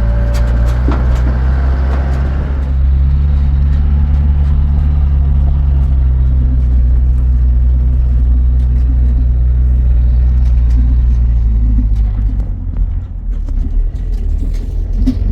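A motor vehicle's engine running steadily with a deep, even drone; it eases off briefly about twelve seconds in, then picks up again.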